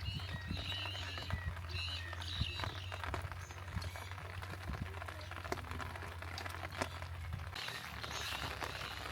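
Birds chirping in short high calls, over scattered drips and patter of rain. A low steady hum runs underneath and stops near the end.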